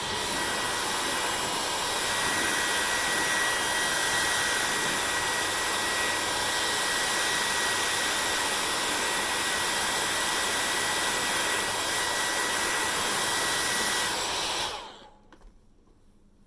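Hair dryer blowing steadily, a rush of air with a thin whine over it. Near the end it is switched off and the sound dies away within about half a second.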